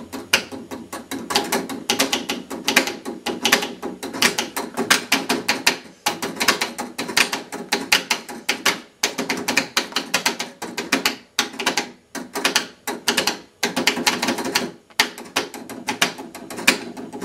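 Rapid, irregular mechanical clicking and clattering, with a few brief pauses.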